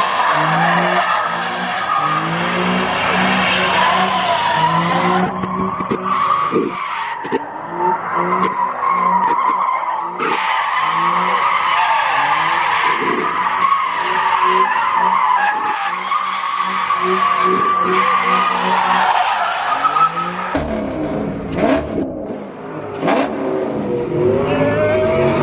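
Car tires spinning and squealing in a long screech while the engine revs up and down repeatedly. The squeal breaks off about twenty seconds in, leaving engine noise.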